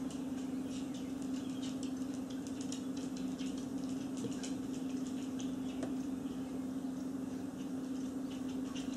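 Quiet room tone with a steady low hum, over which small birds chirp and twitter in many quick, irregular high notes.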